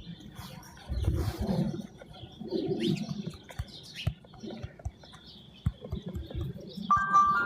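Backyard birds at a feeder: low cooing, as from doves, and brief high chirps, with scattered small clicks. Soft music with held tones comes in near the end.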